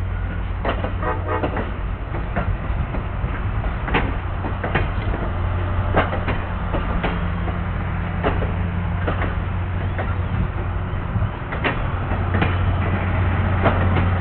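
Train rolling past: a steady low diesel drone under irregular metallic clacks and knocks of wheels and cars.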